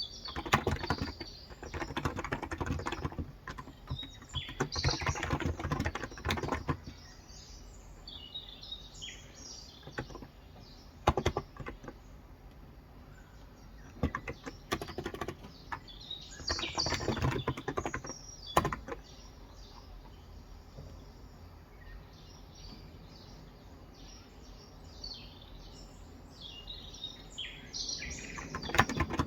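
Typing on a Cox Endeavor electrostatic capacitive (35 g) tenkeyless keyboard: two fast runs of soft keystrokes with a few single key presses between them. Birds chirp in the pauses, mostly in the quiet stretches between the typing runs and near the end.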